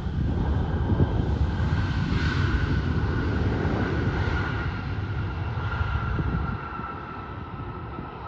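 Jet airliner passing, a heavy engine rumble with a high whine that slowly drops in pitch; the rumble eases about six and a half seconds in.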